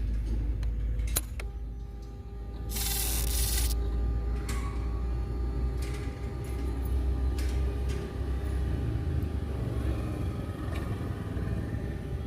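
Motorcycle engine running with a steady low rumble. There is a sharp click about a second in, and a hiss lasting about a second near three seconds in.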